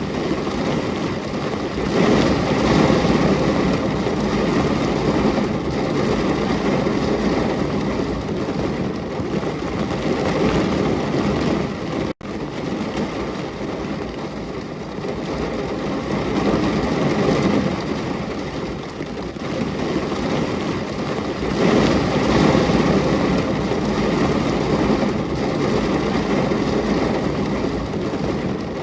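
Steady rain falling: a dense, even hiss with a low rumble, swelling louder at times. It cuts out for an instant about twelve seconds in.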